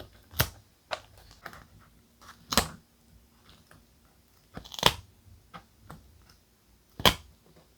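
Paper crafting sounds: four sharp, crisp crunches of thick paper about two seconds apart, with light rustling and small taps between them.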